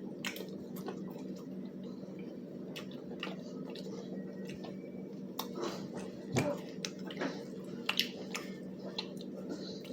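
Someone chewing crispy fried chicken, with scattered crisp clicks and wet mouth sounds, over a steady low hum.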